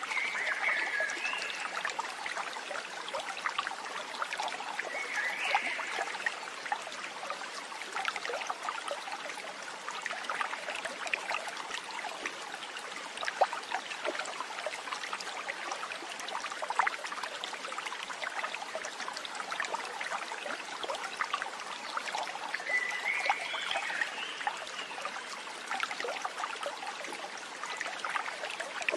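Water trickling and flowing over stones in a stream, a steady babble with three short high chirps.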